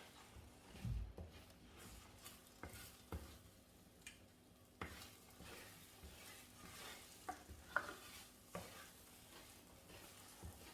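Beaten eggs and vegetables frying quietly in a pan, with scattered clicks and scrapes of a utensil stirring against the pan.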